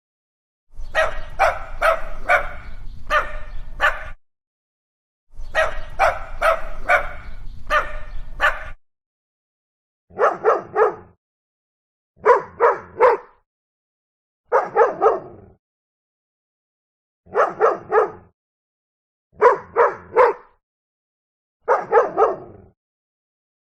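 Dogs barking. First come two runs of rapid, repeated barks over a low hum, then a dog barks in short bursts of three or four barks, about one burst every two and a half seconds, with silent gaps between bursts.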